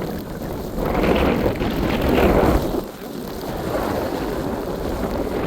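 Wind rushing and buffeting against the camera microphone in a snowstorm, louder in a gust from about one to two and a half seconds in.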